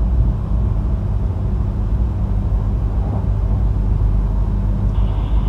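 E8-series Shinkansen train running on the line, heard inside the passenger cabin as a steady low rumble of wheels and running gear.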